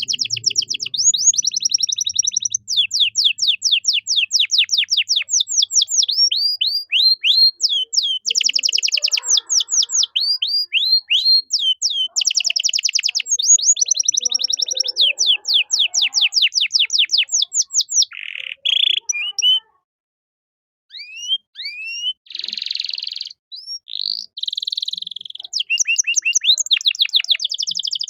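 Male domestic canary singing a long, continuous song of fast rolling trills. It runs through rapid series of repeated down-sweeping notes, with the phrase changing every second or two. There is a pause of about a second and a half roughly two-thirds of the way in before the song resumes.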